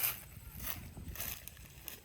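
Footsteps crunching on a trail, about one step every half second, the first one loudest.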